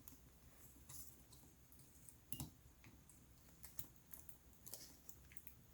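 Near silence with faint scattered clicks and taps of small plastic laptop parts being handled, the clearest one about two and a half seconds in.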